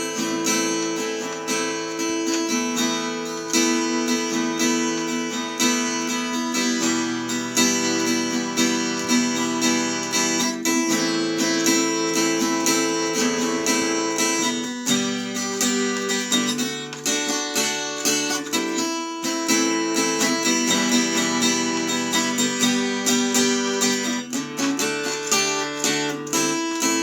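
Acoustic guitar music: strummed and picked chords in a steady rhythm, the chord changing every few seconds.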